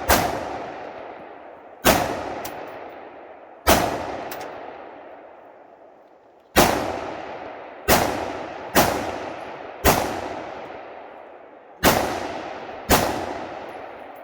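Nine rifle shots fired at uneven intervals, about one to three seconds apart with one longer pause, each followed by a long echoing decay.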